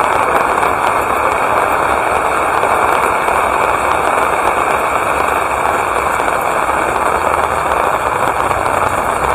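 Rain falling steadily, a dense even hiss and patter.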